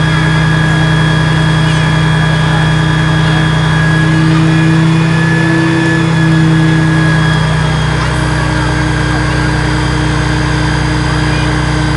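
Scania fire appliance's diesel engine running steadily at raised revs. The revs lift slightly about four seconds in, then drop back a little after about seven seconds.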